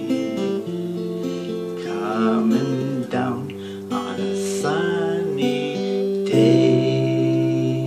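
Acoustic guitar strummed through the closing chords of a song, ending on a final chord struck about six seconds in and left to ring.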